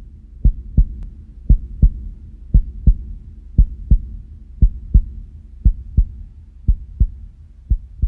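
Heartbeat sound effect: paired low thumps, lub-dub about once a second, over a low drone, the beats growing weaker near the end.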